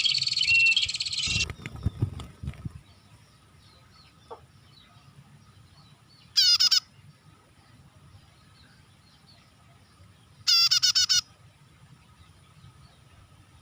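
Prinia (prenjak) lure calls: a fast, high, buzzy trill that stops about a second and a half in, a few low thumps, then after a pause two short harsh bursts of rapid repeated notes, about six and ten and a half seconds in.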